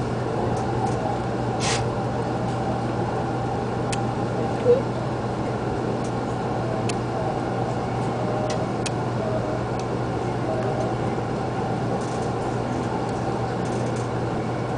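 Shinkansen train running, heard from inside the passenger car: a steady rumble with a constant low hum, a few faint clicks, and one short sharp knock about five seconds in.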